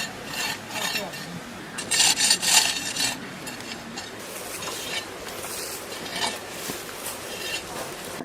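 Repeated scraping strokes, like a metal tool working a rough, gritty surface, loudest about two to three seconds in.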